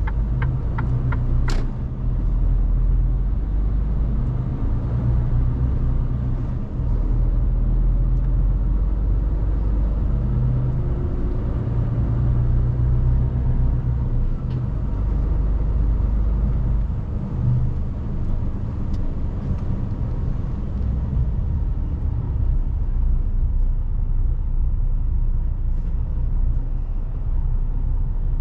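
Mercedes-Benz Actros truck's diesel engine running steadily with road noise, heard from inside the cab. A few sharp clicks come in the first second or two.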